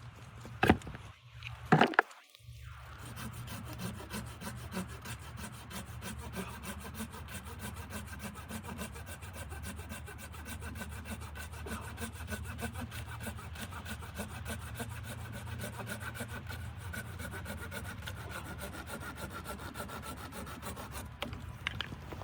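Two sharp knocks, then a saw cutting through wood with steady strokes until near the end.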